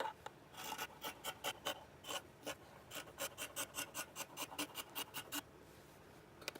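Quick scratchy rasping strokes, about four or five a second, that run for nearly five seconds and then stop.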